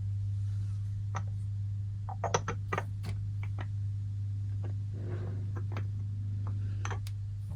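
A steady low hum with scattered light clicks and knocks of small items being handled and set down, the loudest cluster about two seconds in.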